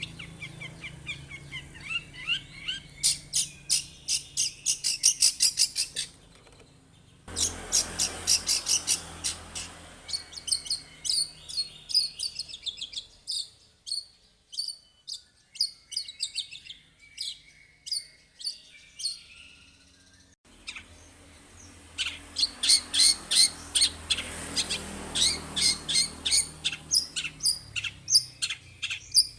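Long-tailed shrike (cendet) singing vigorously in rapid runs of sharp, high chattering notes. The song cuts off abruptly about six seconds in, resumes a second later, thins out in the middle and grows dense again after about twenty seconds.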